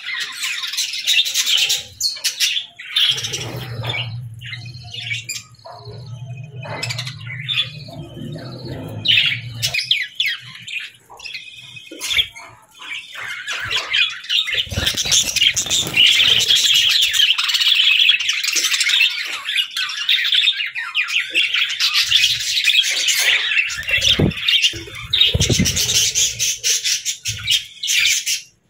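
A flock of parakeets (budgerigars) chirping and squawking continuously in rapid, overlapping high calls, busiest in the second half. A low steady hum sits underneath from about three to ten seconds in.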